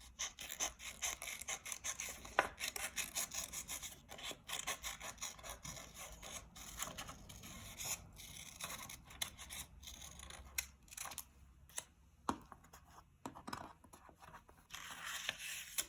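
Scissors cutting through paper in a run of quick, irregular snips.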